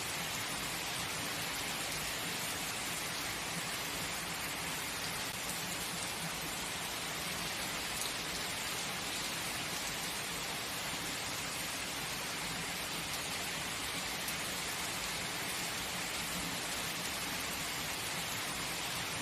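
Steady heavy rain falling, an even hiss with a patter of drops on a surface.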